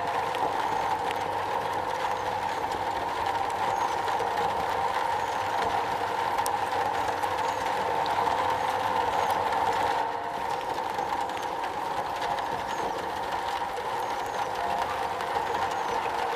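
Steady rain drumming on a metal roof, an even patter of many drops, briefly a little softer about ten seconds in.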